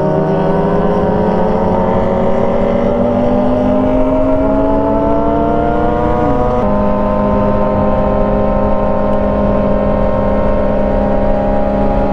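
Yamaha R6 inline-four engine pulling in gear with its pitch rising slowly, then a gear change about six and a half seconds in, after which it runs at a steady pitch. Steady road and wind noise lies underneath.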